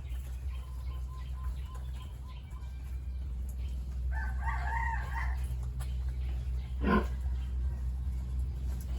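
A rooster crows once, a wavering call lasting just over a second, starting about four seconds in, over a steady low hum. Near the end comes a single sharp knock, the loudest sound here.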